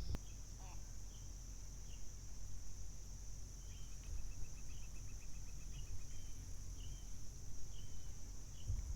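Steady high-pitched insect chorus, crickets or katydids, shrilling without a break, with scattered short bird chirps and one quick trill about four seconds in, over a low rumble.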